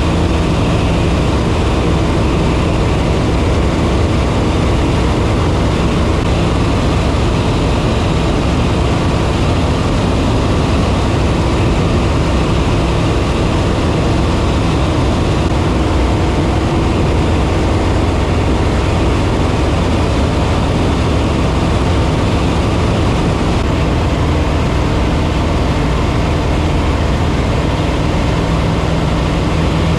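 Piper Super Cub's piston engine and propeller running steadily in flight, a constant loud engine and air noise.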